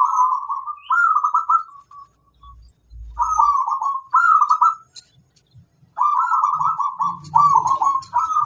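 Zebra dove (perkutut) cooing: rolling, trilled phrases of repeated notes, broken by short pauses of a second or so, with faint high chirps in the background.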